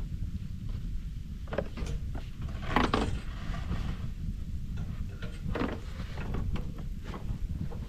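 Scattered short knocks and scrapes over a steady low rumble, with a louder scrape about three seconds in and another near six seconds.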